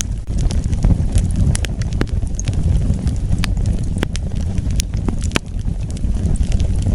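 Wood fire burning: a steady low rumble of flames with irregular sharp crackles and pops from the burning wood, a few every second.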